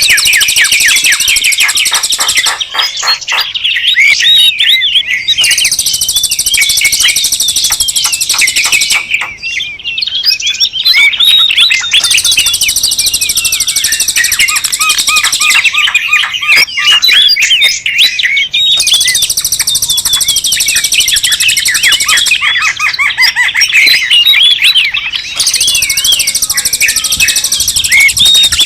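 Bird-lure recording of a busy chorus of small birds chirping and twittering rapidly over one another. A very high, steady buzz comes in and drops out in stretches of a few seconds.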